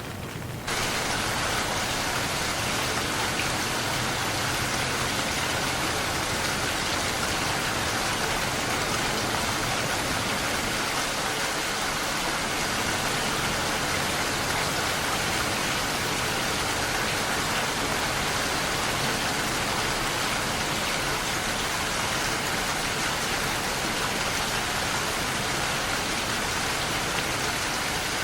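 Steady rain falling, an even hiss with no distinct drops or thunder. It jumps up in level sharply just under a second in, then holds steady.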